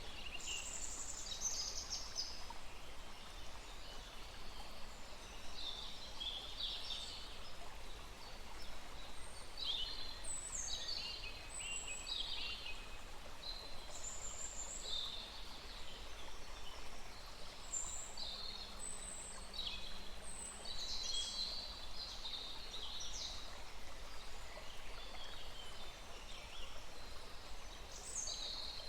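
Several birds calling and singing in short, repeated high phrases over the steady rush of a small stream.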